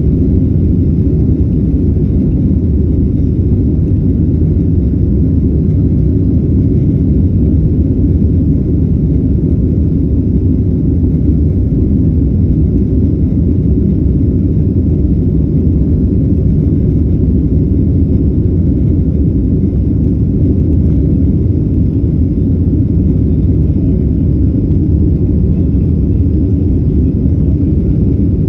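Boeing 767 jet noise heard inside the cabin during takeoff: a loud, steady low rumble of engines and airflow that holds level throughout.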